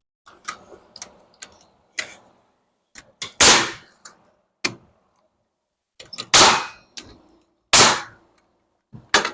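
Wood framing being struck while sheetrock blocking is fitted: light knocks and taps, then three loud, sharp blows about three and a half, six and a half and eight seconds in.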